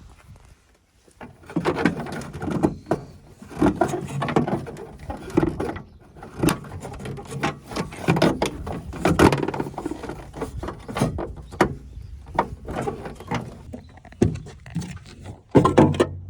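Irregular knocks, clicks and clatter of hands-on work, uneven in loudness.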